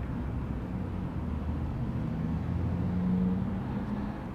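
Steady low background rumble with a faint, slightly wavering hum and no distinct events.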